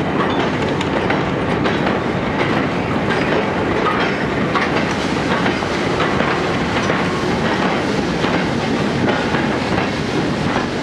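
Vintage goods wagons of a freight train rolling past close by, their wheels clicking and clattering steadily over the rails.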